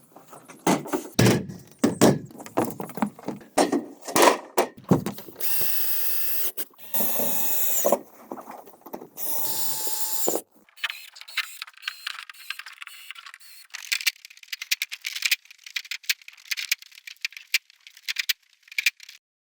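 Bamboo construction work: a run of sharp knocks, then three short bursts of a power drill about halfway in, followed by a dense, light crackling and rustling.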